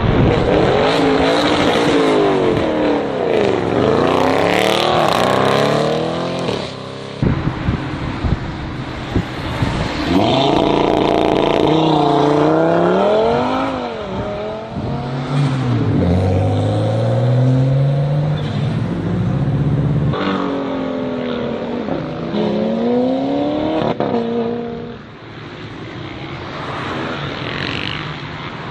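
Performance Audi RS cars, among them an RS6 Avant and an RS3, accelerating hard one after another. Their engines rev up in pitch and drop back at each gear change, with a few sharp cracks from the exhaust about seven seconds in.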